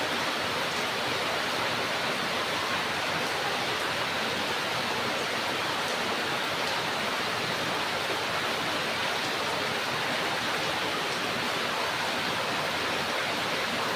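Rain falling steadily: a dense, even hiss with no single drops or other events standing out.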